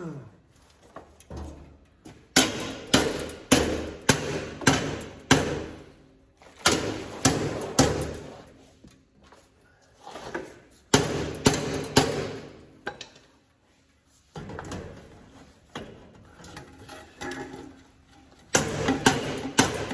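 Hammer blows on metal, in runs of several evenly spaced strikes about two a second, broken by short pauses.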